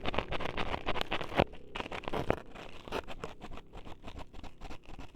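Close-miked ASMR scraping and crackling with dense irregular clicks, two of them sharper about a second and a half and two seconds in, as of tools worked right against a microphone.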